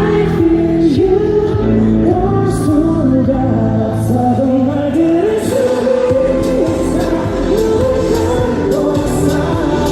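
A K-pop song performed live: a boy group's vocals over a loud backing track with a steady beat.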